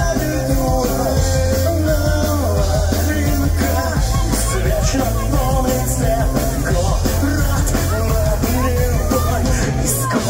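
Live pop-punk band playing loud, with drums, bass and electric guitars and a wavering melody line on top.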